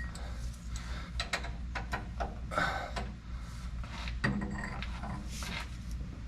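Scattered light clinks and knocks of hand tools and parts being handled during work on the machine, over a steady low hum, with a short louder sound about four seconds in.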